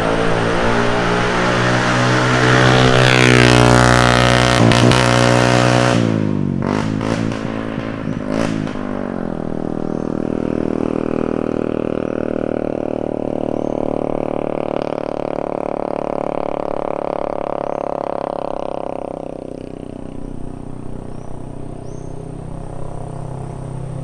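Motor vehicles passing on a road. One engine grows louder and goes by with a falling pitch about three to five seconds in. Then a second vehicle's road noise swells and fades away between about ten and nineteen seconds.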